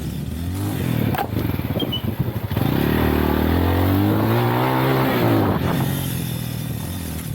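Lifan Xpect dual-sport motorcycle's engine running under way. It is revved up harder a few seconds in, its pitch rising and then falling off again, with a brief knock about a second in.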